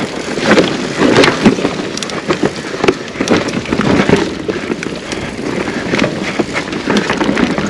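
Mountain bike riding down a rough forest dirt trail: tyre noise on the dirt with irregular knocks and rattles from the bike as it goes over bumps and roots.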